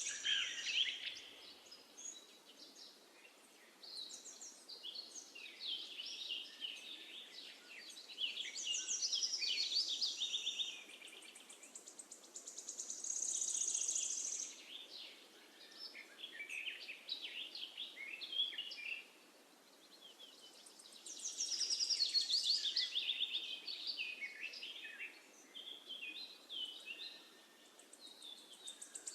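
Songbirds singing, several overlapping songs of chirps and rapid high trills that come and go every few seconds, over a faint steady background hiss.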